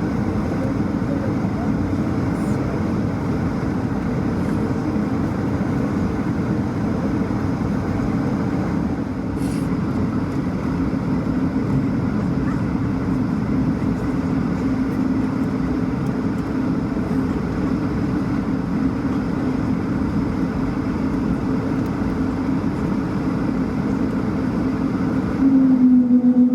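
Steady engine drone with a low hum, heard inside the cabin of an Airbus A220-300 with its Pratt & Whitney PW1500G geared turbofans running. About a second before the end it gets louder.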